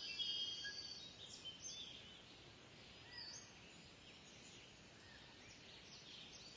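Kingfisher calling: a quick run of high, shrill whistled notes in the first two seconds, then scattered shorter chirps, over a steady background hiss.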